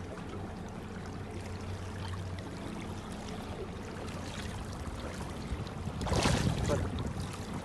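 Boat under way: a steady low engine hum with water rushing, and a louder rush of water or wind about six seconds in.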